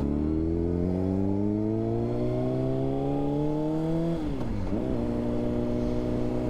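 Honda CBR600RR's inline-four engine through a Yoshimura exhaust, pulling through the gears: the revs climb steadily for about four seconds, drop sharply with an upshift, and then hold steady at cruising speed.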